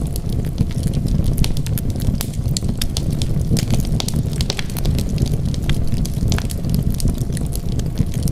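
Wood fire crackling, with frequent irregular sharp pops over a steady low rumble of burning.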